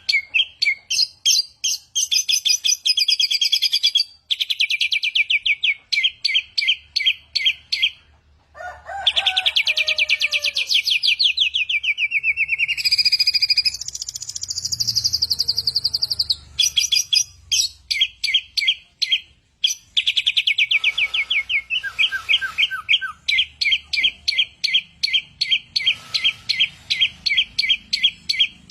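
A samyong songbird singing loudly in long strings of rapid, repeated chirping notes, several a second, broken by fast trills and a lower, falling call about nine seconds in.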